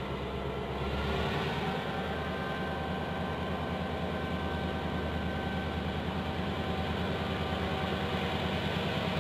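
Diesel locomotive engine running, with a fast, even beat; the beat grows stronger about a second in and the engine stays steady after that.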